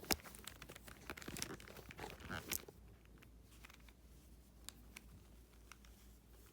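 Plastic clicking and clatter of a Moyu RS4M 4x4 speedcube being turned by hand: a dense run of clicks over the first few seconds, led by one sharp click just after the start, then scattered clicks.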